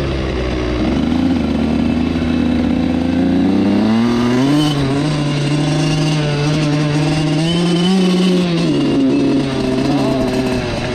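Suzuki RM85 two-stroke single-cylinder dirt bike engine running while being ridden. Its pitch rises about four seconds in, holds steady, then drops near the end.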